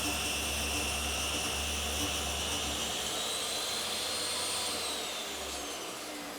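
Table saw running with a steady machine noise and a high whine, ripping the edges of wood strips. About five seconds in, the whine falls and the low hum stops as the machine runs down.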